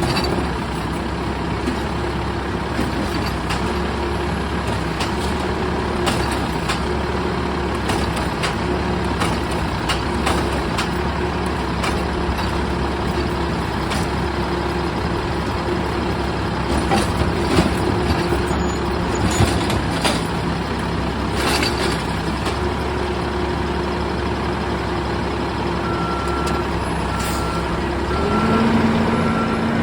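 Garbage truck's diesel engine running steadily, with scattered knocks and clatter. Near the end a reversing alarm starts beeping and the engine revs up with a rising pitch.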